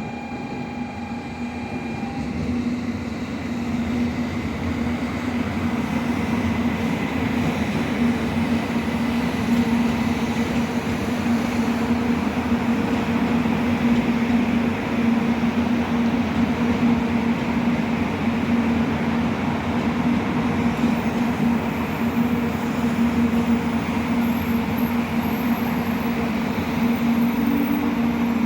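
A Sanyo Shinkansen train at the platform: a steady electric hum under dense rolling noise, growing louder over the first several seconds and then holding steady.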